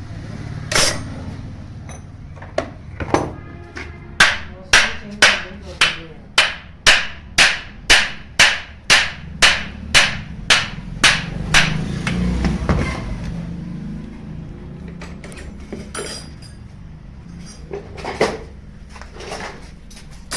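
Hammer blows on a small water pump while it is being dismantled. A run of about fifteen even strikes comes at roughly two a second, with a few scattered knocks before and after.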